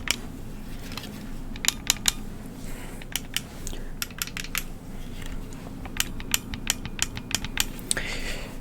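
Old toy pirate gun's cocking mechanism clicking as it is worked part of the way back and let go, never fully cocked: small clusters of sharp clicks, two to four at a time, through the whole stretch.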